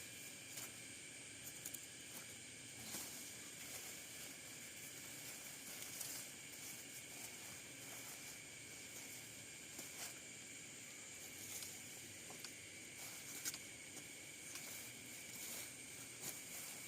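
Faint, steady outdoor hiss with a thin high hum, and scattered soft clicks and rustles throughout.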